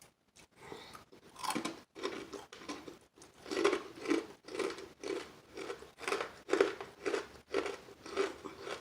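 Close-up chewing of crispy fried chicken wing, crunching about twice a second through a big crunchy mouthful.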